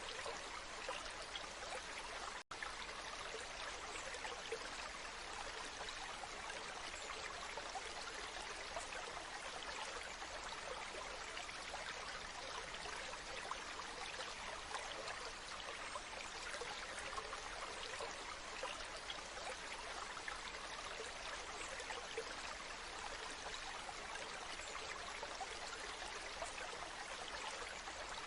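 Waterfall: falling water rushing steadily, a hiss-like rush with little low end. The sound cuts out for a split second about two and a half seconds in.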